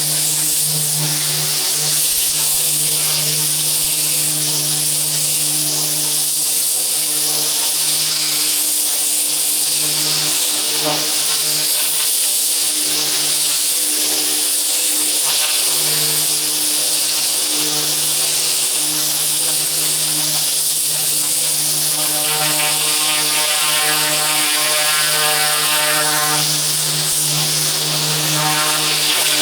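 Pressure washer running steadily: a constant buzzing hum from its motor and pump under the hiss of the high-pressure water spray. A higher buzzing tone joins for a few seconds near the end.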